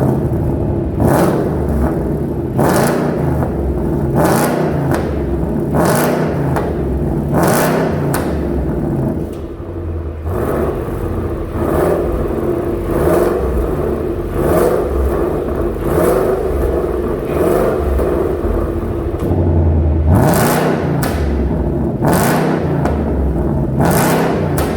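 Ford Mustang GT's 5.0-litre V8 revved over and over through a tuned aftermarket exhaust, its pitch climbing and falling with each rev, with sharp cracks from the exhaust.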